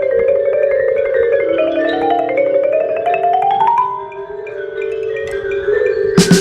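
Mallet keyboards, marimba-like, playing fast runs of rapidly struck notes, one run climbing steadily in pitch. Loud drum hits come in just before the end.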